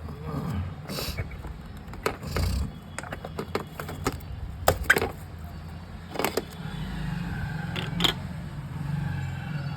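Scattered sharp clicks and knocks of tools and plastic or metal parts being handled while an electronic keyboard's circuit board is worked on, over a steady low hum.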